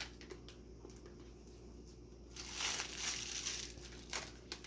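Plastic snack packaging crinkling as it is handled, loudest for about a second midway, with a few small clicks before it.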